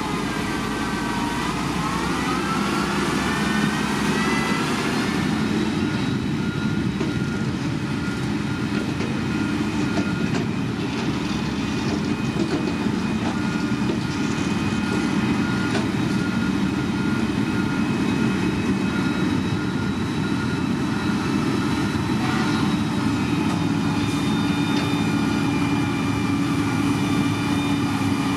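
Heavy diesel earthmoving machinery running steadily, with a whine rising in pitch over the first few seconds. A beep repeating at an even pace is heard for about ten seconds in the middle.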